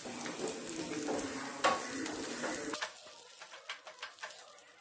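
Crushed garlic cloves, curry leaves and mustard seeds frying in sesame oil in a stainless steel pan, sizzling and crackling as a wooden spatula stirs them over a medium flame. The sound gets quieter a little over halfway through, leaving fainter crackles.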